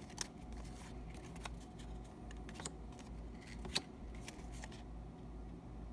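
Trading cards and their packaging being handled, with a few faint sharp clicks and light rustles about a second apart over a low background hum.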